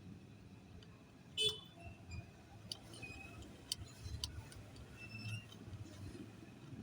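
Scattered sharp clicks and light ticks of small hard objects being handled, the loudest about one and a half seconds in, over a low steady rumble.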